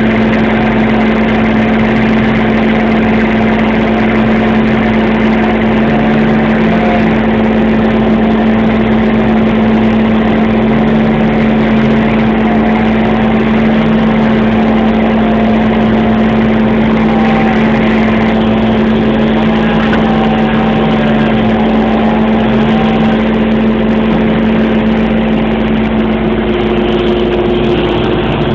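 Chainsaw engine running continuously at a steady pitch, its tone wavering slightly up and down.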